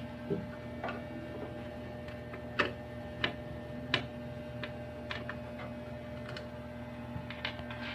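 Scattered light clicks and taps, unevenly spaced, from handling the AV receiver's metal casing as it is opened, over a steady low hum.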